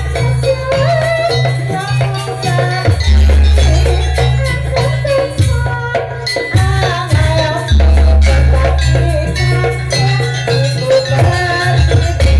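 Jaranan ensemble music: long, deep low notes repeating under a wavering melody line, with dense rattling percussion.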